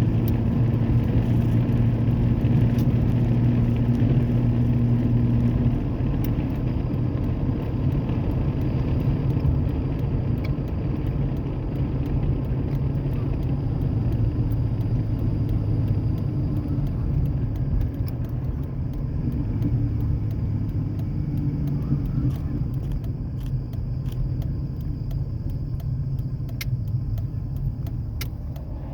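Exhaust drone from a 2003 Ford Ranger's 4.0-litre V6, muffler deleted with the catalytic converters left on, running steadily while the truck cruises, heard inside the cab. The drone eases slightly about six seconds in.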